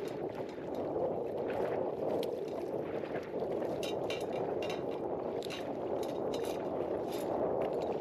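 Wind blowing over the microphone and water slapping against a small inflatable boat, with a run of short splashy crackles in the second half.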